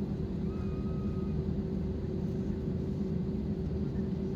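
Steady low rumble and hum inside an Airbus A320's passenger cabin, with one even tone held over the noise. A faint brief high tone comes about half a second in.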